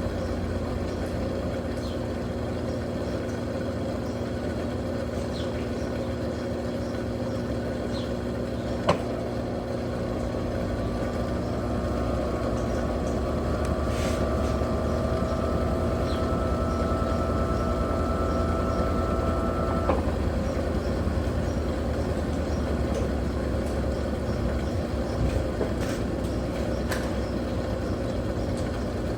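Electrolux Turbo Capacidade Premium 15 kg washing machine running with a steady motor hum. There is a sharp click about nine seconds in, and a faint whine rises slowly from about ten seconds in, then cuts off suddenly about twenty seconds in.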